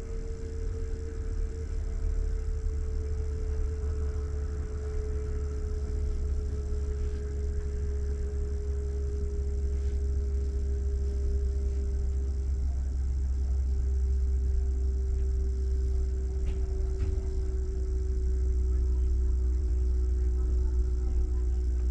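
Steady low hum of a train heard from inside the passenger coach, with a faint single tone that slowly falls in pitch.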